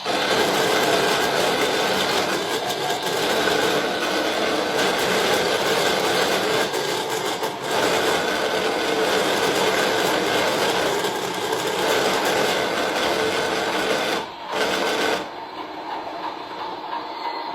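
A machine running with a loud, steady, fast whirring rattle. It breaks off briefly about 14 seconds in, comes back, then drops to a quieter hum about a second later.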